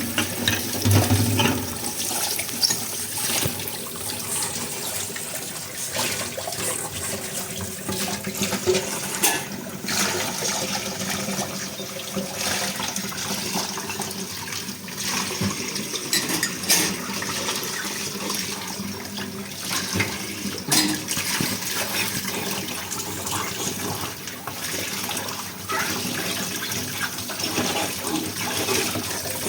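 Water running steadily from a kitchen tap while dishes are washed under it, with now and then a sharp clink of dishware.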